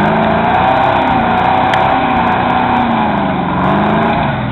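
A 4x4's engine running hard, its pitch sagging and then climbing again as it is revved, fading off near the end.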